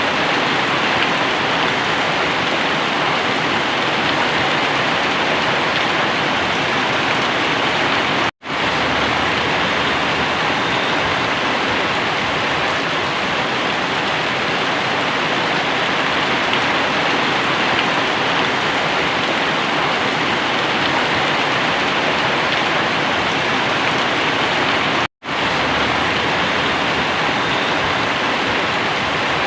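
Very heavy rain pouring down in a steady, dense hiss. The sound cuts out for a split second twice, about 8 and 25 seconds in.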